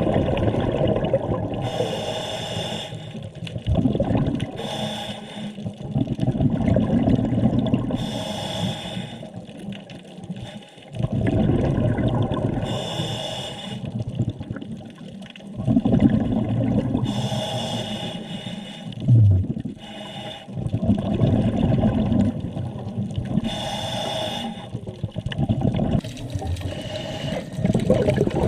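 Scuba diver breathing underwater through a regulator: a short hiss on each breath in, then a longer rush of exhaled bubbles on each breath out, about six breaths in a steady rhythm.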